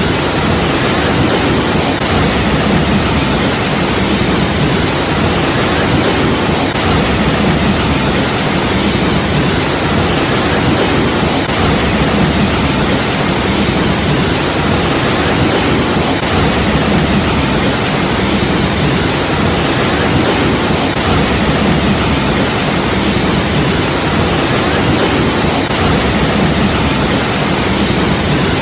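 Waterfall: water falling and splashing in a loud, steady rush that does not change.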